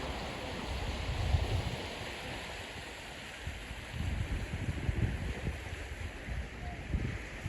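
Wind buffeting the microphone in irregular low gusts over a steady outdoor rushing hiss.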